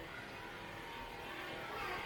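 Steady cabin noise inside an Emirates Airbus A380-842 standing before pushback: an even background hum with no distinct events.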